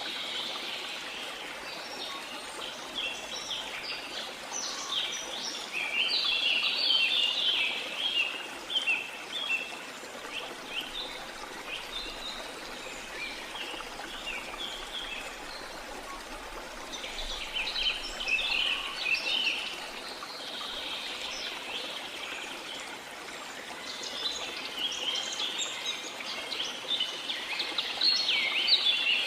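Rainforest ambience: a steady hiss of falling and running water under spells of many birds chirping and chattering. The birds are loudest from about six to ten seconds in, again around seventeen to twenty seconds, and near the end.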